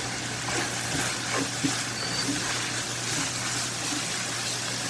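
Minced chicken sizzling in a hot pan as it is stir-fried with its sauces, chili and coriander, with a few light clicks and scrapes of stirring.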